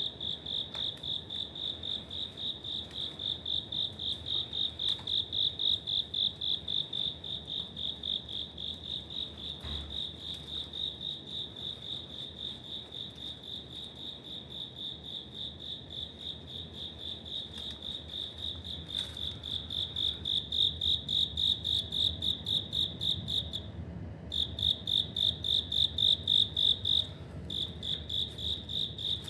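A cricket chirping in a steady run of about four chirps a second, all on one high pitch. It breaks off twice, briefly, in the last few seconds.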